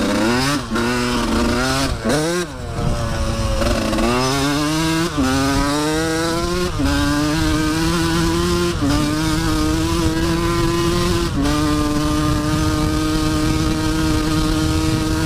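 Dirt bike engine accelerating hard through the gears: the pitch climbs, dips slightly at each of several upshifts and climbs again, then holds steady at high revs near the end.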